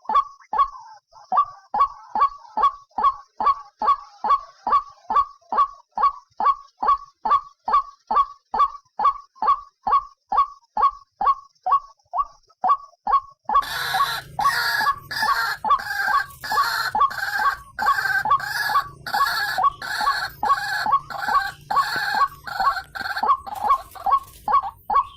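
White-breasted waterhen (ruak-ruak) calling: short croaking notes repeated about two to three times a second. About halfway through, a second, harsher bout of calling joins in.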